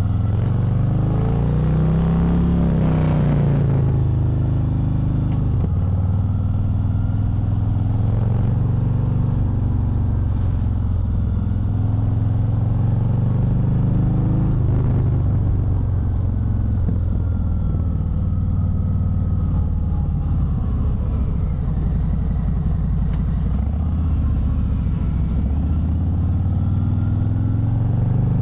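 Harley-Davidson Fat Bob 114's Milwaukee-Eight 114 V-twin running on the road, its pitch climbing and dropping again and again as the bike accelerates, shifts and eases off.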